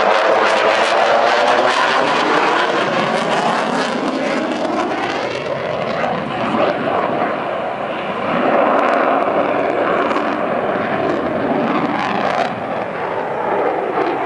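Single-engine F-16 fighter jet's engine noise, loud throughout, with a sweeping, shifting quality as the jet moves across the sky; it eases a little in the middle and builds again.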